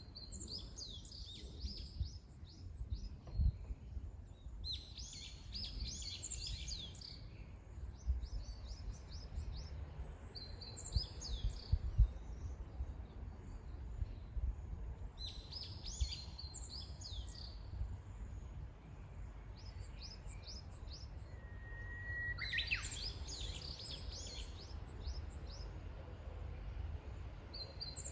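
A songbird singing short phrases of quick falling notes, repeated every few seconds, over a steady low rumble.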